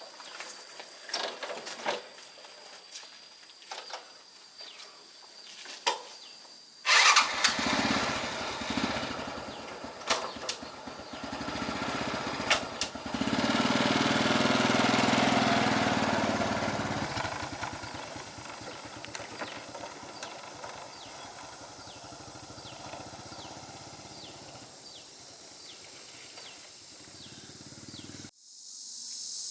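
Scattered knocks and clicks, then a small engine starts suddenly about seven seconds in and runs, loudest for a few seconds before settling to a steadier, quieter running that cuts off near the end.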